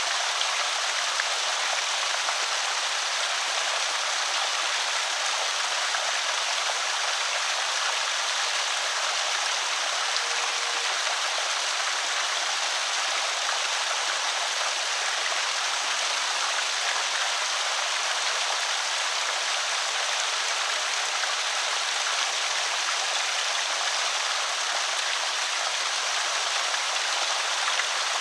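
Water trickling and splashing steadily over a small creek spillway, an even rushing hiss.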